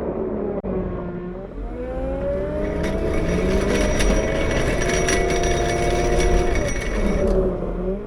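CAT 908 compact wheel loader's diesel engine revving up about a second and a half in and holding high revs under load, with a high whine over it, then dropping back toward idle near the end.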